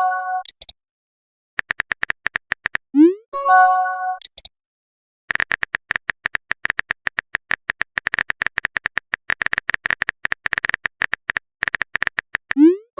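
Phone-keyboard typing clicks in quick runs, each run ended by a short rising swoosh and a brief chime: text-message typing and sending sound effects. A short run of typing is followed by a swoosh and chime about three seconds in, then a long run of typing from about five seconds in ends in another swoosh near the end.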